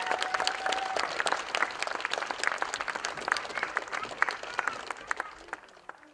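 Audience applauding at the end of a song, the clapping thinning out and dying away near the end.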